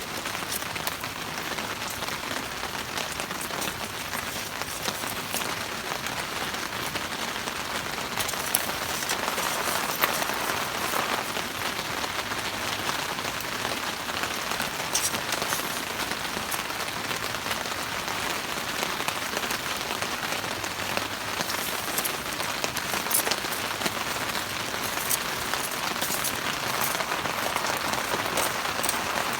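Steady rain falling, with many scattered sharp ticks of drops on top of the even hiss.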